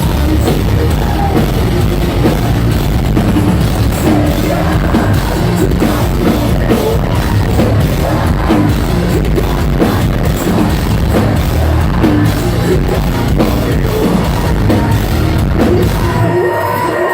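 Live metalcore band playing at full volume: distorted guitars and pounding drums under sung and shouted vocals. Near the end the low end drops away briefly.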